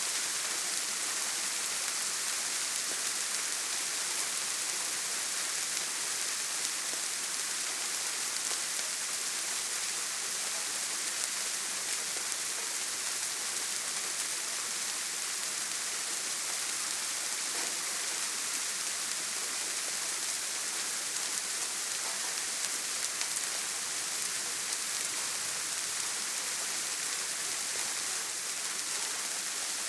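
Steady heavy rain falling on a tin roof: an even, bright hiss that holds without change and with no thunder.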